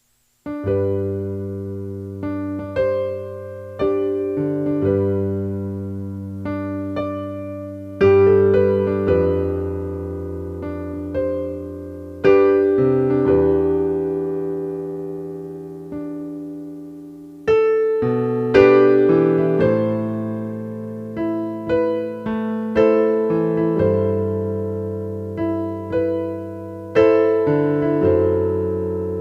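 Background piano music: slow chords and melody notes, each struck and left to fade, starting just after the beginning following a moment of silence.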